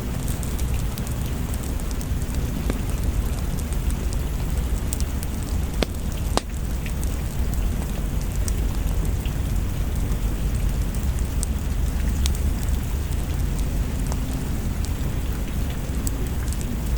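Steady rain with a deep low rumble underneath and scattered sharp clicks, one louder crack about six seconds in.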